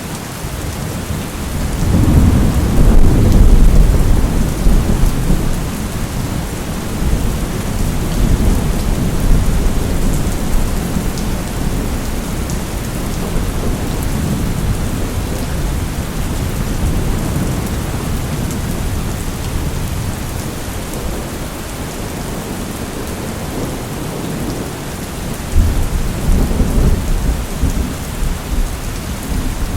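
Steady rain with rolling thunder from a thunderstorm. A long low rumble builds about two seconds in and fades over several seconds, and another rumble starts near the end.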